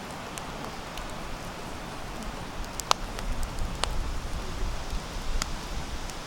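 Sawtooth oak (kunugi) firewood burning in a campfire: a steady hiss with scattered sharp crackles and pops, the loudest about three seconds in. A low rumble rises under it from about halfway.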